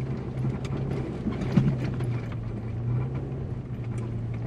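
A vehicle's engine running at a steady drone while driving on a soft bush track, with scattered knocks and rattles from the bumps.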